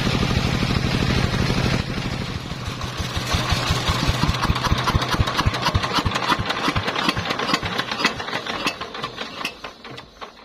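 Engine driving a homemade circular sawmill running steadily, then shut off about two seconds in: its firing strokes slow and weaken as it coasts down, fading out near the end.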